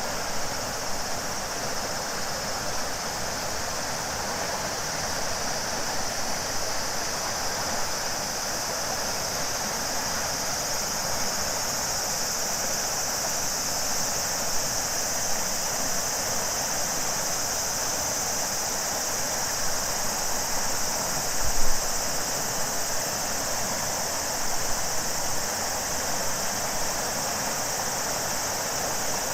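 Shimanto River flowing with a steady rush of water under a continuous chorus of summer cicadas buzzing high and even. A short low bump stands out about two-thirds of the way through.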